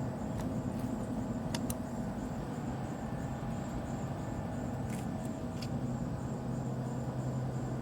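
A steady low machine hum with a few sharp clicks.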